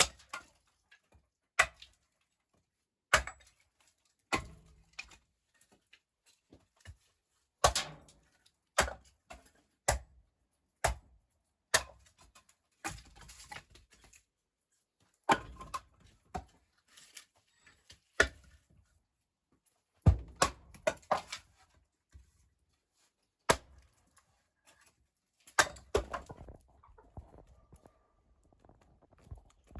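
A run of irregular sharp knocks and clacks in a small room, roughly one a second, with brief quiet between them.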